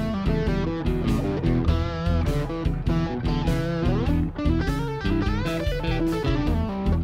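Instrumental blues music: electric guitar playing single-note lines with bent notes over bass and a steady beat.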